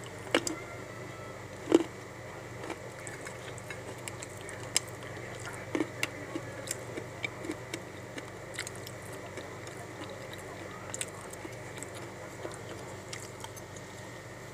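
Dry clay soil being bitten and chewed close to the microphone: irregular sharp crunches and crackles, the loudest near the start, then smaller crunches every half second or so.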